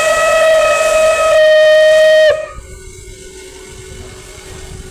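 Locomotive whistle blown once, a loud steady single-pitched blast of about two and a half seconds that cuts off sharply. A lower steady hum runs on underneath.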